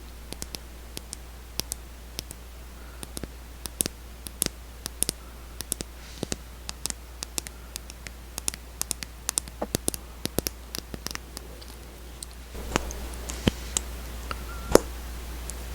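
Close-miked, irregular small clicks and taps, a few a second, from handling and tapping a lip cosmetic's case; a few louder clicks come near the end.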